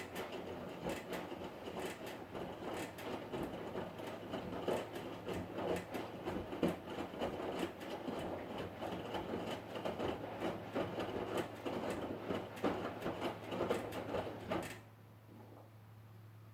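Hotpoint Ariston washing machine running, with irregular clattering and clicking over a steady low hum. The clatter stops abruptly near the end, leaving only the hum.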